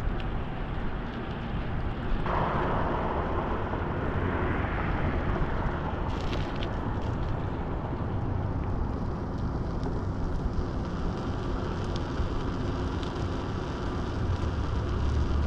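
Steady road traffic noise, with one vehicle passing close by: a rush of sound that starts suddenly about two seconds in and fades over the next few seconds.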